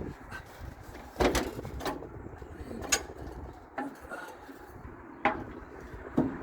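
Pieces of steel being handled and set down: five sharp knocks and clunks at irregular intervals, the loudest about a second in and another near the end.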